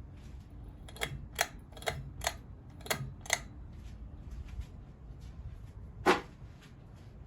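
Sharp mechanical clicks, three pairs close together, then a single louder click near the end, over a steady low hum.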